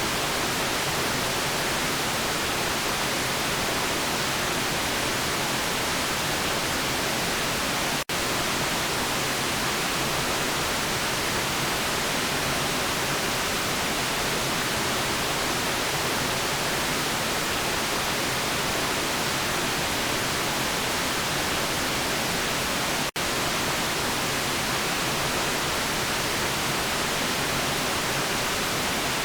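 Steady white noise: an even, unchanging hiss with no rhythm or tone. It cuts out for a split second twice, about eight seconds in and again some fifteen seconds later.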